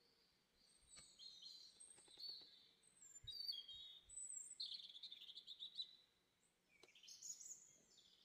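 Faint chirping of small birds in the background: a string of short high calls, a rapid trill near the middle, and more chirps near the end. A few faint taps come through as well.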